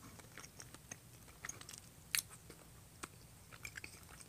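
A person chewing a mouthful of pork blood stew close to the microphone: faint, scattered short mouth clicks, the sharpest about two seconds in.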